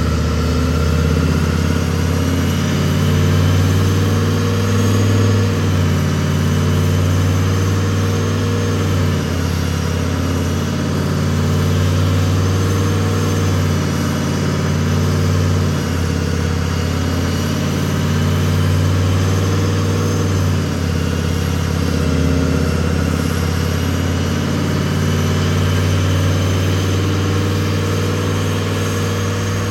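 Turbocharged Chevy Silverado's V8 running steadily at low speed, with slow swells in level and a thin high whine above the engine note.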